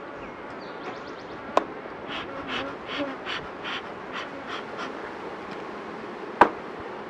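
Honeybees buzzing around an open hive. Two sharp knocks come about a second and a half in and near the end, and a run of about ten short rasping strokes, roughly three a second, falls in the middle.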